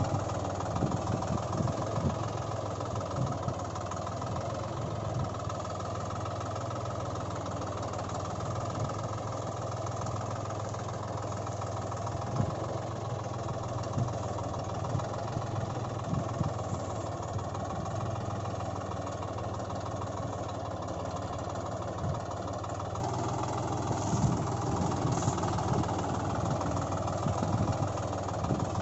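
Engine running at a steady idle, with scattered knocks and clicks. The sound changes abruptly about twenty-three seconds in, with more clatter after.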